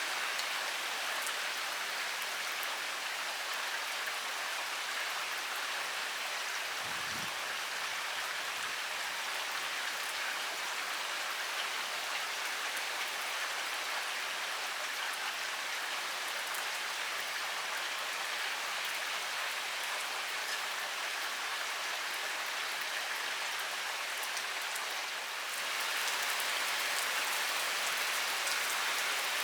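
Heavy rain pouring steadily, a dense even patter of drops on surfaces. About 25 seconds in it grows slightly louder and stays that way.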